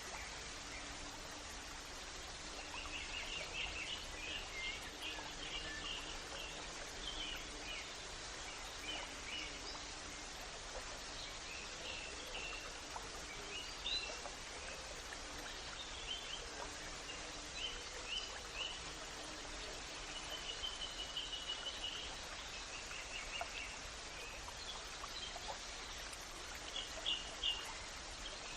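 Small birds chirping and calling in quick series of short high notes over a steady outdoor background hiss.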